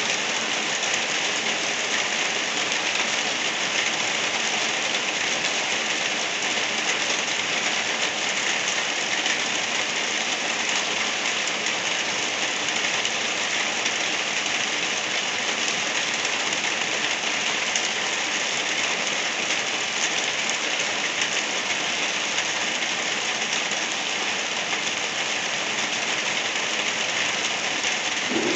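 Light rain falling steadily, an even hiss with no breaks or changes.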